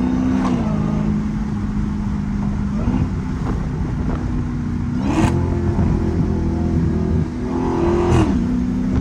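Straight-piped Dodge Challenger Hellcat's supercharged V8 exhaust droning at cruise, then rising in pitch about five seconds in as it accelerates, holding for about three seconds and falling back when the throttle lifts.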